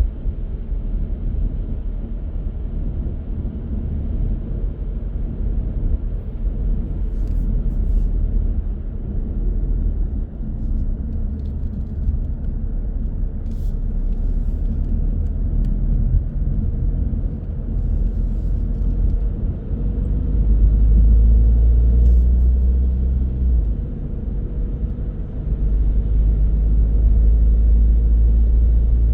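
Car driving on the road: a steady low rumble of tyres and engine, swelling louder for about three seconds two-thirds of the way through and again near the end.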